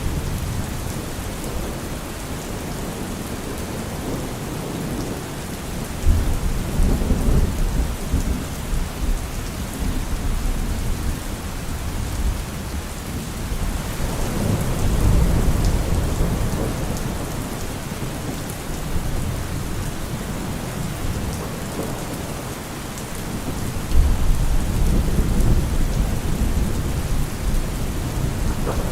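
Steady rain falling, with thunder rumbling low three times: a sudden rumble about six seconds in, a slower swelling one in the middle, and another sudden one near the end.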